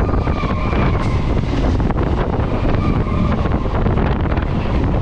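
Electric multiple-unit local train running at speed, heard from inside the coach: a steady low rumble of wheels on the track with wind buffeting the microphone.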